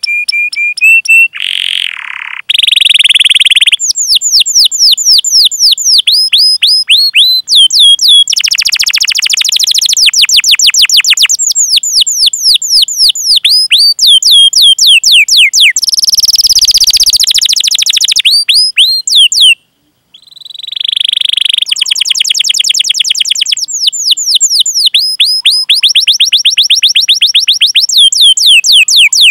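Domestic canary singing close up: long runs of quick, sharply falling whistled 'cuit cuit' notes alternate with buzzy rolling trills. The song breaks off briefly about two-thirds of the way through.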